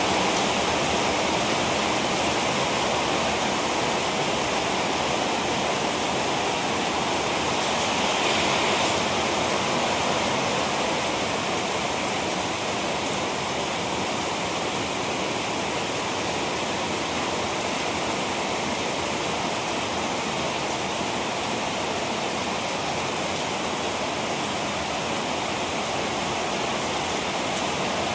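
Heavy rain falling steadily, a dense even hiss that swells slightly about a third of the way through.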